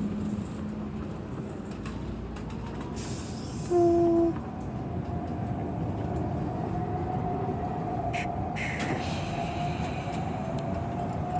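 Tram running on the rails with a steady rumble; a short, loud horn note sounds about four seconds in, followed by a thin, steady wheel squeal on the track.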